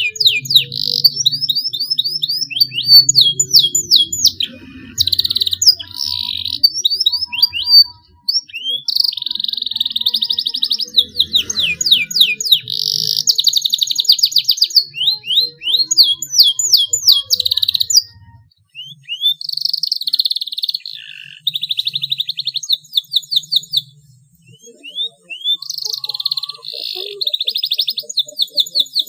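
Young canary singing, still learning its song: phrases of rapid downward-sweeping notes and long buzzing trills (rolls), broken by brief pauses about a quarter, two-thirds and four-fifths of the way through.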